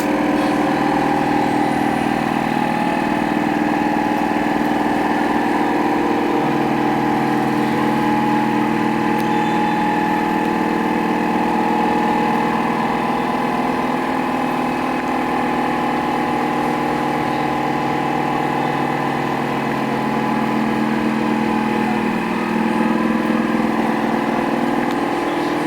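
Autobis electric wet-mop floor cleaner running, its motor giving a steady hum whose lower tone shifts slightly a few times.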